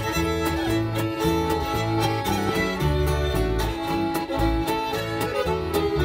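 A small string band playing an instrumental tune, a fiddle carrying the melody over strummed guitar and a bass line that steps between low notes on the beat.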